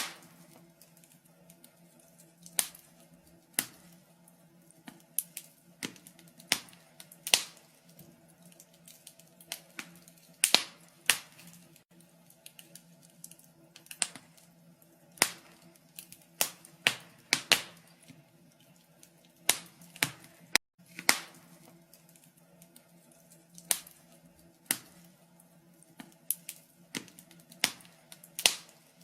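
Wood fire crackling in a fireplace: irregular sharp pops and snaps, about one or two a second, over a faint steady low hum.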